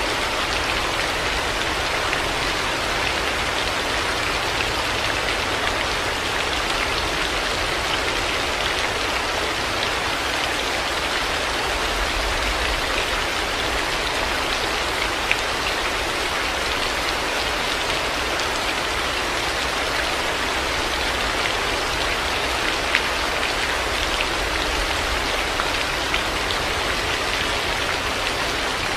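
Steady heavy rain falling, an even hiss with a low rumble beneath and a few louder single drops landing.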